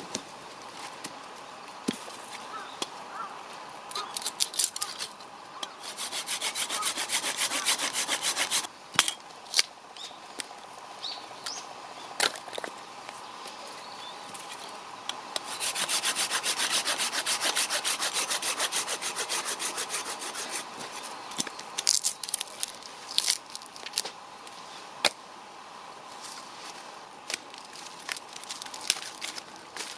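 Hand saw cutting firewood in two spells of quick, even strokes: a short one about six seconds in and a longer one from about halfway. Scattered sharp knocks and clicks of wood sound in between.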